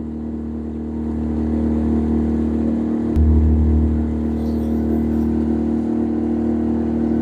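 Boat engine running steadily with a low drone, the deepest part of the note growing louder about three seconds in.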